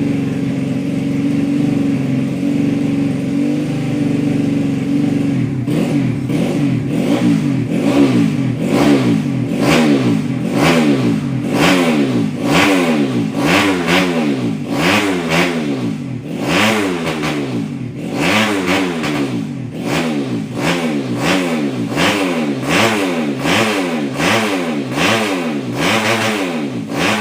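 Racing-spec Yamaha Jupiter (5TP) four-stroke single-cylinder motorcycle engine, bored out to 130cc, running at a steady high idle. About five seconds in it starts being revved in quick throttle blips, rising and falling about once a second.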